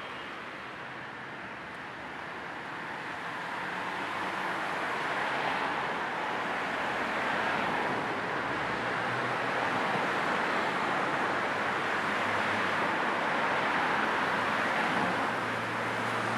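Steady rushing road noise of a car driving, tyres on the road, mixed with a low white-noise hiss. It grows louder over the first few seconds, then holds even.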